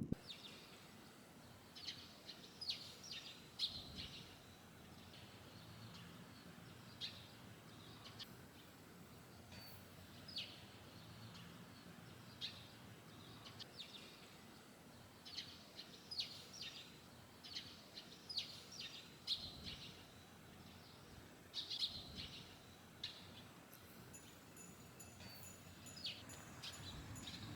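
Small birds chirping, short high chirps in little clusters every second or two, over a faint steady outdoor background.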